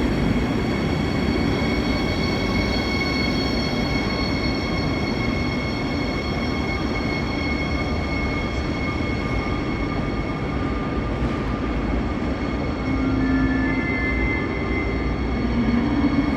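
Electric train at a station platform: a steady rumble with a whine of several high, steady tones, and a few further tones coming in about thirteen seconds in.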